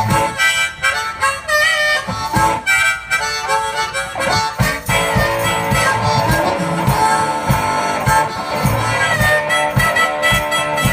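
Blues harmonica solo from a one-man band, with a steady low beat coming in about halfway through.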